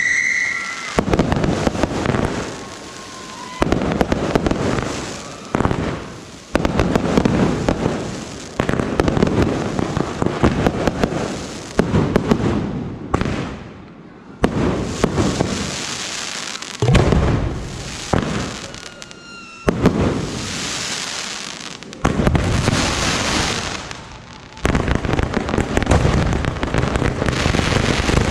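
Aerial fireworks display: shell after shell bursting with a sudden loud bang, each followed by a dense crackling that dies away over a second or more. A few thin whistles slide through between the bursts.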